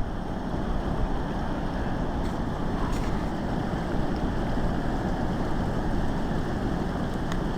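Strong gusty wind blowing over the microphone: a steady noise, heaviest in the low end.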